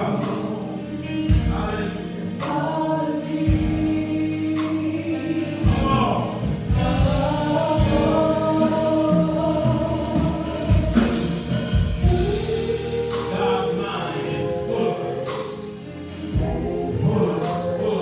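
Gospel music: a choir singing over instrumental backing with a beat.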